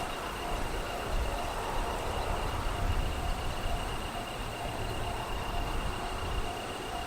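JR East E721 series electric train passing over the level crossing: a steady rumble of wheels on the rails.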